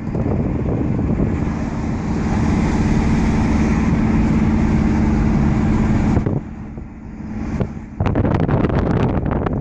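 Car driving: steady engine and road noise with a low drone that drops away about six seconds in. Near the end comes a quick run of sharp clicks and knocks.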